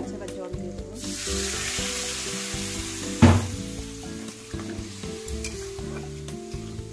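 Onion and spice masala frying in hot oil in a kadai while it is stirred with a metal spatula: a loud sizzle jumps up about a second in and slowly dies away. A sharp knock about three seconds in is the loudest sound.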